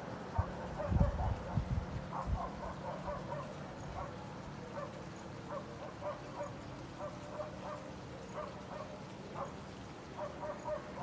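Repeated short animal calls, faint and mid-pitched, a few each second throughout. Several low thumps come in the first two seconds or so.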